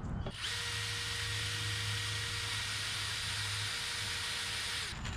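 Power drill running steadily at one speed for about four and a half seconds, driving a screw to join the wooden boards of the ramp, then stopping.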